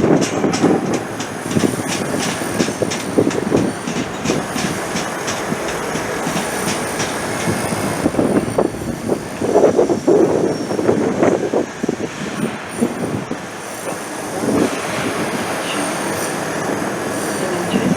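Train running on the track, its wheels clicking rapidly over rail joints in the first few seconds, with steady running noise throughout.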